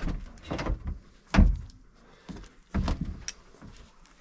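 A series of about five clunks and knocks from handling the old Triumph convertible's door and perspex side-screen fittings, the loudest about a second and a half in.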